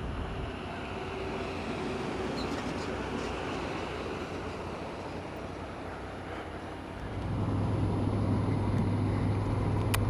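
Road traffic noise with a motor vehicle running. About seven seconds in, a steady low engine hum comes in and the noise grows louder.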